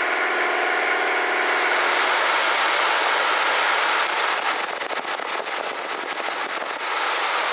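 1965 Ford Galaxie 500's engine running on a temporary fuel feed through its fuel pump, and running fine. The sound changes about a second and a half in and drops a little in level about halfway through.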